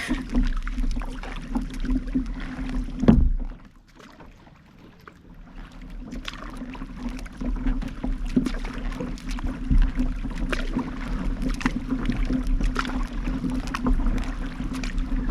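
Kayak on the water heard from a camera mounted on the boat: paddle splashes and water washing against the hull over a steady low hum. About three seconds in there is a loud knock, then the sound goes muffled and quiet for about two seconds before the splashing returns.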